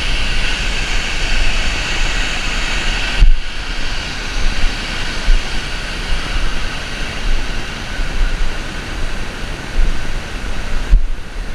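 Steady roar of a large waterfall, mixed with low wind rumble on the microphone. The noise drops out briefly at two cuts, one about three seconds in and one near the end.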